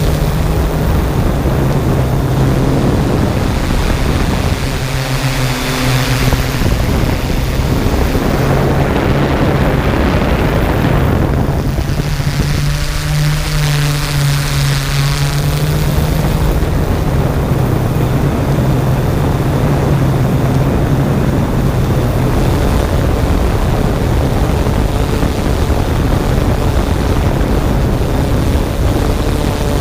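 Toy camera drone's motors and propellers buzzing steadily in flight, the hum shifting in pitch now and then as it manoeuvres.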